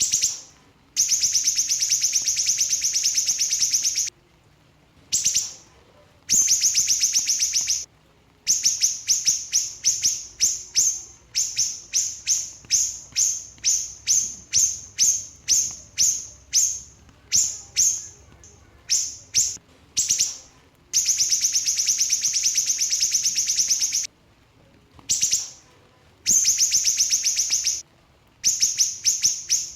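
A small siri-siri songbird singing a rapid, tightly packed song. Long buzzy trills of about two to three seconds alternate with runs of short sharp notes at about two a second, all high-pitched.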